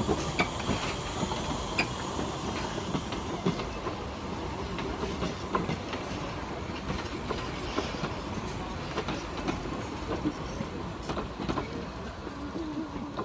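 Metre-gauge heritage steam train passing at close range, its carriages rolling by with a steady rumble and irregular clicking and clattering of wheels over the rails.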